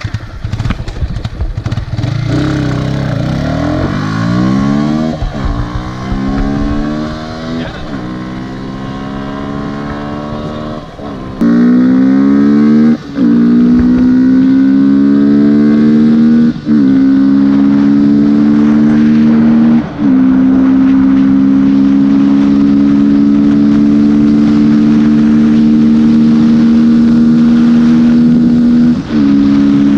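Yamaha R15 V3's single-cylinder engine, breathing through a UNI aftermarket air filter, accelerating hard through the gears: the note climbs and drops sharply at each upshift, five or six times, and turns much louder about a third of the way in. It then holds a steady high pitch at speed, with one brief dip near the end.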